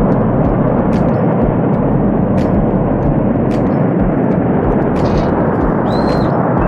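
Glacier-burst flash flood of water and debris surging down the river valley: a loud, steady, deep rushing rumble.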